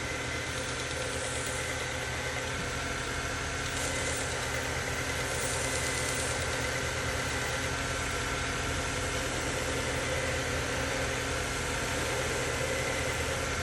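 Belt grinder's electric motor running steadily with the belt spinning: a constant hum with a few faint steady whining tones.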